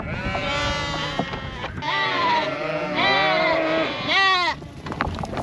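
A crowded flock of ewes and lambs bleating, many calls overlapping, with one loud call near the end. This is the calling of lambs and ewes being separated at weaning.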